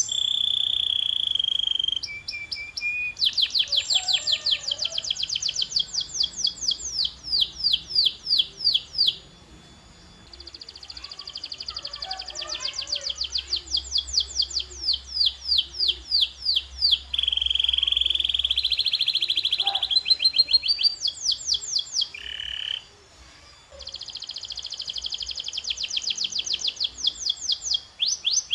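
Domestic canary singing: phrases of quickly repeated sweeping notes alternating with steady buzzing rolls, broken by two short lulls.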